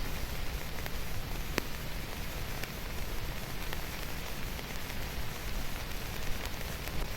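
Steady rain falling, an even hiss with scattered sharper drop ticks, one clearer tick about one and a half seconds in.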